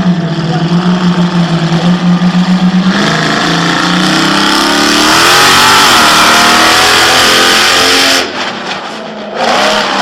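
Bigfoot monster truck engine running with a pulsing throb, then revving up about three seconds in and held loud and high for several seconds as the truck drives over the cars. It drops off sharply, then revs briefly once more near the end.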